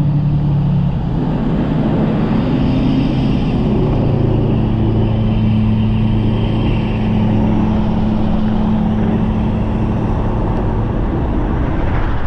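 Wind rushing over the microphone of a fast-moving e-bike, with the steady hum of a motor vehicle's engine running close by.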